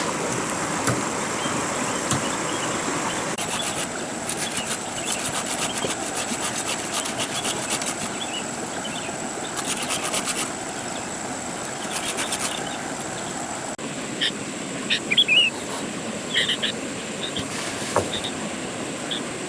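Outdoor forest ambience: a steady hiss with a thin high-pitched drone. Stretches of rapid clicking come in the first half, and short high chirps in the second half.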